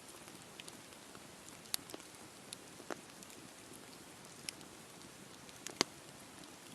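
Wood campfire burning with a soft steady hiss and scattered sharp crackles and pops. The loudest pop comes near the end, with smaller ones about two and three seconds in.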